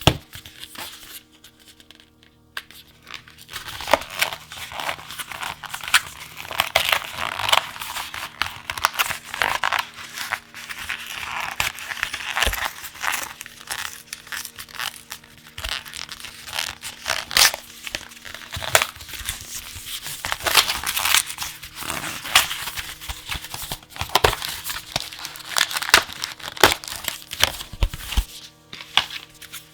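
Plastic packaging of a pack of card sleeves being torn open and crinkled by hand, a dense, irregular run of rips and crackles. Soft background music with steady held tones underneath.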